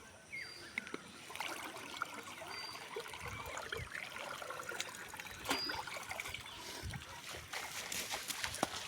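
Water trickling and splashing in shallow water, with many small splashes that grow louder and more frequent toward the end.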